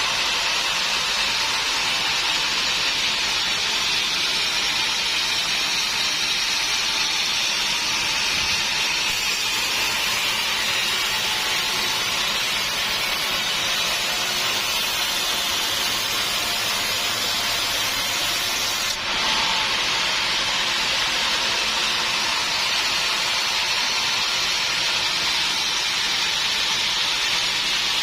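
Sawmill machinery running, a steady, loud hissing noise. It changes abruptly about nine seconds in and again a little before twenty seconds.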